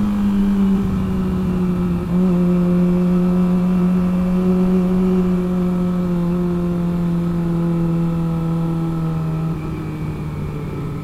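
Motorcycle engine running under way at a steady cruise, its pitch slowly sinking, then dropping lower and quieter near the end as the throttle eases off.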